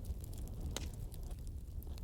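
Fire burning in a fireplace: a steady low rumble of the flames with scattered sharp crackles and pops, the loudest pop about three quarters of a second in.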